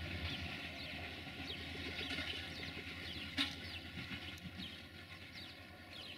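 Passenger train pulling away, its low rumble slowly fading, with birds chirping throughout. A single sharp click about three and a half seconds in.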